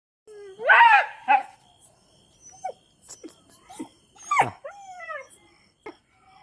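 Chippiparai dog whining and yelping in a string of short cries, most of them falling in pitch, loudest about a second in and again about four seconds in.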